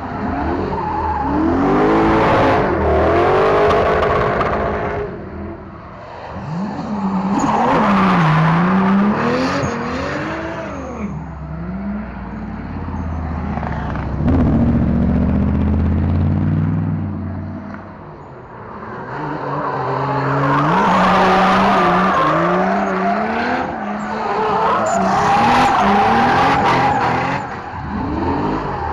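Drift cars sliding by: engines revving up and down on and off the throttle over tyre squeal and skidding, in several loud passes that die away briefly about six seconds in and again about eighteen seconds in.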